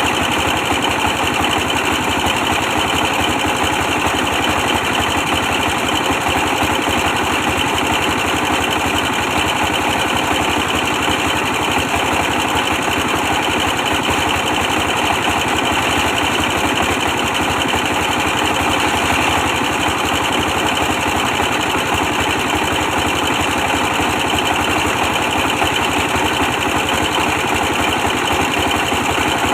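A 24 hp diesel engine running steadily at constant speed, powering a brick press machine.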